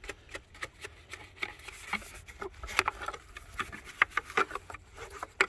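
A scattered run of sharp, irregular light clicks and taps, like small objects being handled.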